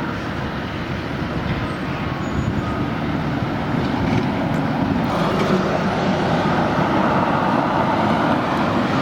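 Road traffic noise: a steady rush of passing vehicles that grows louder about halfway through.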